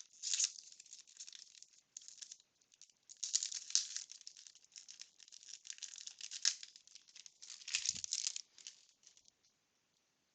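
Wax-paper baseball card pack crinkling as it is opened, and cardboard cards rustling as they are handled, in irregular short spells. The sound stops near the end.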